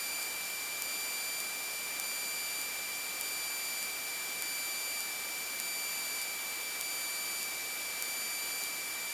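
Steady hiss with a constant high-pitched whine on a light airplane's headset intercom feed, which shuts out most of the engine and cabin noise. Faint ticks come through about once a second.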